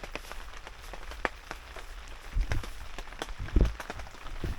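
Raindrops tapping irregularly on a plastic tarp, with a few dull low thumps about halfway through and again later.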